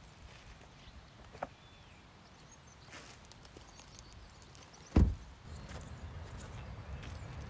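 Scattered light clicks and ticks, then one heavy, low thump about five seconds in, followed by a steady low rumbling noise.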